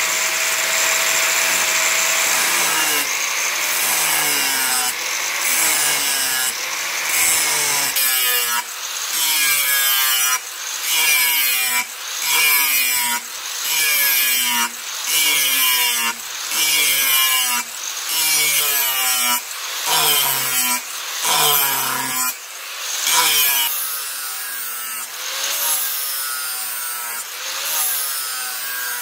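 A steel chainsaw bar being worked by hand in rhythmic back-and-forth strokes, about one a second, each stroke with a squealing tone that slides in pitch. The strokes are steadiest and loudest in the middle and lighter near the end.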